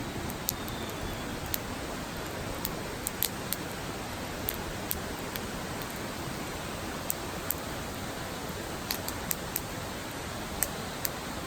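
Wood campfire crackling: sharp, irregular pops over a steady hiss.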